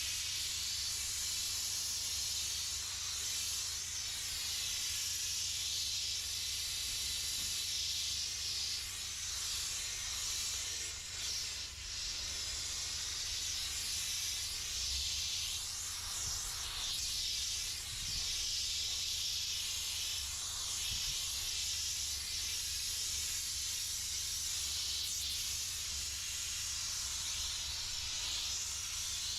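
Steam cleaner nozzle jetting steam in a steady hiss, easing briefly about eleven seconds in.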